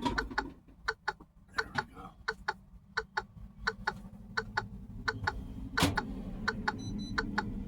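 A quick run of light, sharp ticks, about three a second and not quite even, over a low steady hum that comes in about halfway through; one louder click a little before the end.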